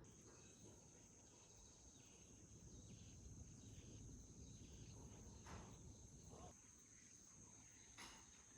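Faint steady high-pitched trill of insects such as crickets, with a couple of soft knocks about five and a half and eight seconds in.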